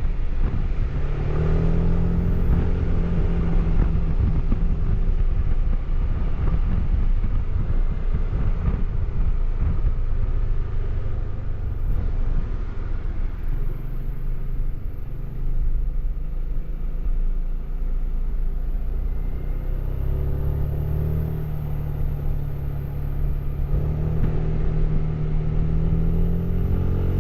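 Suzuki Burgman AN400 maxi-scooter's single-cylinder engine running through its stock exhaust on the move. Its note climbs in the first few seconds, drops lower through the middle, and climbs again about two-thirds of the way through.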